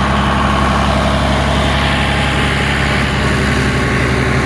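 Tractor and round baler running steadily while baling a hay windrow: a continuous engine hum under the whir of the baler's working parts.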